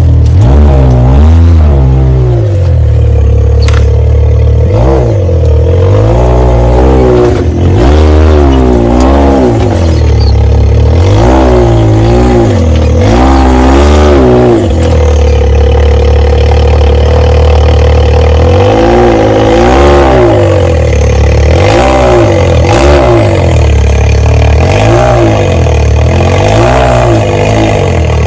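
Off-road vehicle engine revved up and down over and over, its pitch rising and falling in quick arches, with some clatter.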